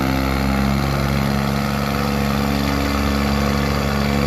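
Tractor diesel engine running steadily, its pitch holding even throughout.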